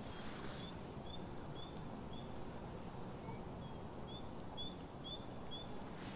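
A small songbird calling: a run of short, high chirps about two a second, with a brief pause near the middle, over a steady background hiss.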